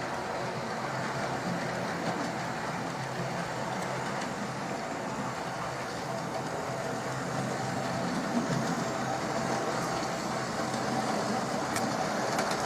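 Hornby OO gauge model train running on its layout track: a steady electric motor whir with wheel-on-rail noise and a few light clicks.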